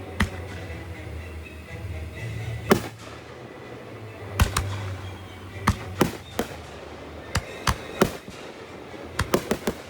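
Fireworks going off in a series of sharp bangs at irregular intervals, with a quick run of several bangs near the end.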